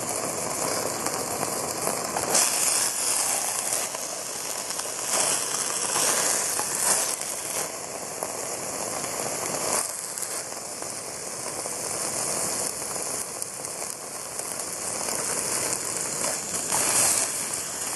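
Hamburger patty sizzling and crackling in a Jetboil fry pan over a backpacking gas stove, the sizzle swelling louder several times.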